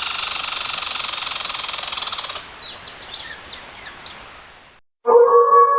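Birds calling in forest: a loud, rapidly pulsing buzzy trill for about two and a half seconds, then a quick run of short chirps. It cuts off suddenly near the end, and music starts.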